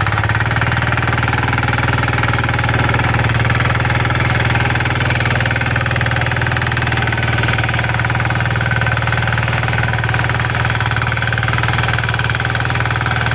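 Kisankraft KK-IC250D power weeder's 5 HP single-cylinder diesel engine running steadily.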